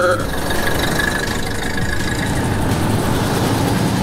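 Classic cars driving slowly past one after another, their engines running with a steady low note.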